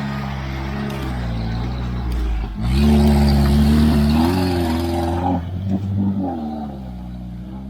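Off-road motorcycle engine running under load, revved up hard about three seconds in, its pitch wavering as the throttle works, then easing off and fading near the end.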